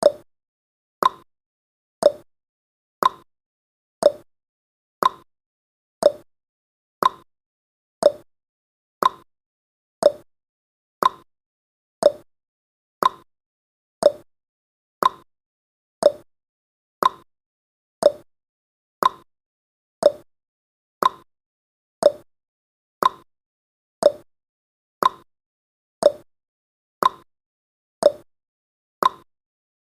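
Clock-style tick-tock sound effect of a countdown timer: one short, sharp tick every second, alternating slightly between two pitches.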